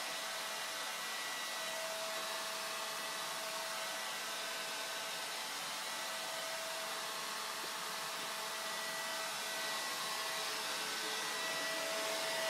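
Vacuum cleaner running steadily: an even hiss with a steady whine, getting slightly louder over the last few seconds.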